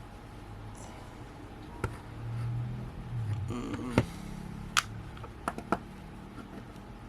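About five sharp clicks and taps from a precision screwdriver and its small bits being handled, the loudest around the middle, over a steady low fan hum.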